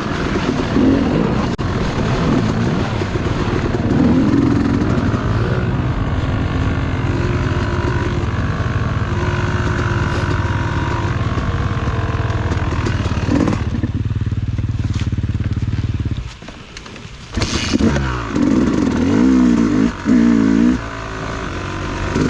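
Dirt bike engine running hard under load, then dropping off sharply about three-quarters of the way through before being revved up and down again several times.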